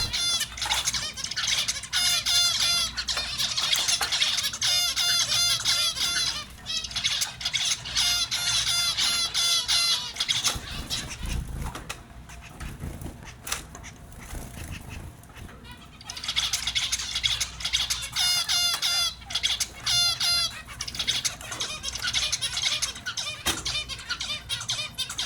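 Small finches chirping in quick, repeated short calls, several birds at once, with a quieter lull in the middle before the chirping picks up again.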